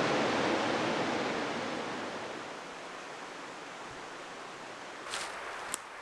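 Steady rushing of flowing water that fades down about two seconds in to a quieter background hiss, with two short sharp clicks near the end.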